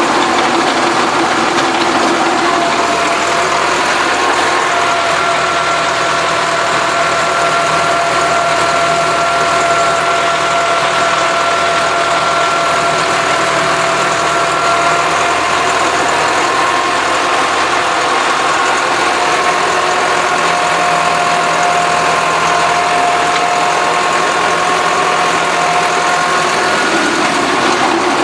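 Massey Ferguson tractor's diesel engine running steadily while working a field, a continuous drone whose pitch shifts slightly now and then.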